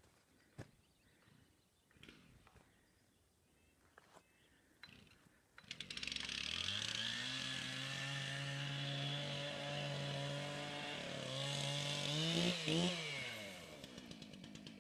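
Chainsaw starting up about five seconds in after a few light knocks, revving up to a steady high speed, wavering in pitch, then dropping back to a lower speed near the end; it is being used to cut a wind-felled tree off the road.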